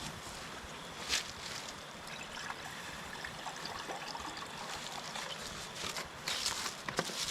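Stream water running in a steady rushing hiss, with a few light clicks and knocks of handling over it, the clearest about a second in and near the end.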